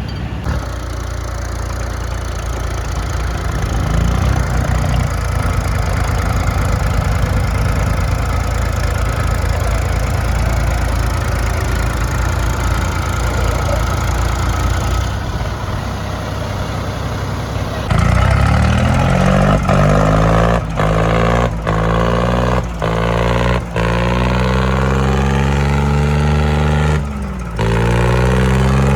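Tractor diesel engines running hard under load for the first 18 s or so. About 18 s in, a louder engine takes over at high revs, its pitch rising and falling, and the sound drops out briefly several times.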